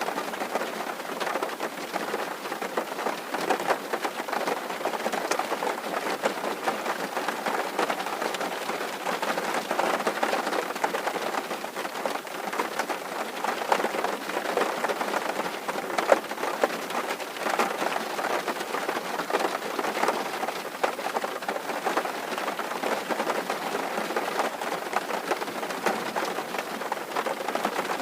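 Rain falling steadily on a tin roof: a dense, even patter of many small drops striking the metal sheet.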